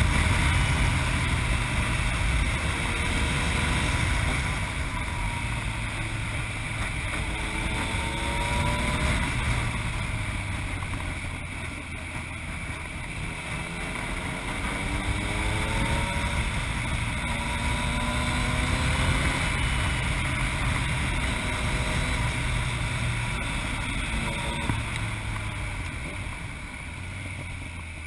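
Yamaha MT-09's inline three-cylinder engine through an Akrapovic exhaust, the bike riding and accelerating with revs rising twice, over wind noise on the microphone. The sound fades toward the end.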